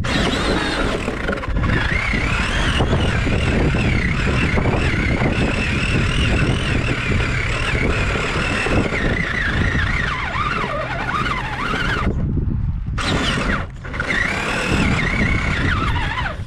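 Small nitro glow engine of a Traxxas Nitro Sport RC truck running, its high pitch rising and falling as the throttle is worked, with short dropouts about twelve and thirteen seconds in.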